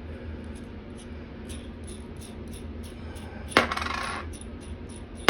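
Small metal hardware from a toilet tank-to-bowl bolt kit clinking as it is handled: faint ticks, then a sharp clink with a brief ring about three and a half seconds in, and another at the end.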